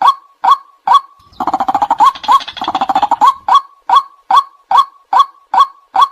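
Recorded white-breasted waterhen calls: a monotonous run of short, upward-hooked 'kwak' notes, about two and a half a second. From about a second in to about three seconds, a denser burst of overlapping calls breaks in before the steady series resumes.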